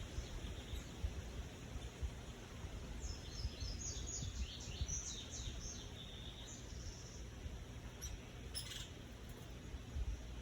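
A bird calling: a quick run of high chirps in the middle, then one short call near the end, over a steady low rumble.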